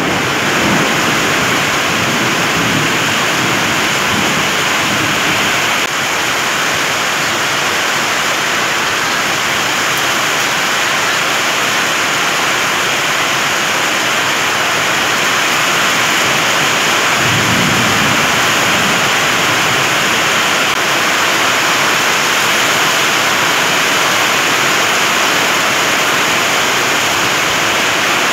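Heavy rain pouring steadily in strong wind, a dense even hiss. Low rumbles come and go in the first few seconds and again about seventeen seconds in.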